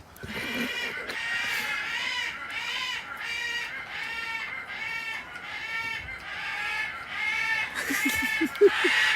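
A parrot giving a long run of short, arching squawks, about two a second, without a break.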